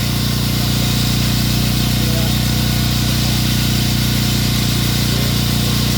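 Construction machinery running steadily: a constant low hum with its overtones under an even hiss, with no change in speed.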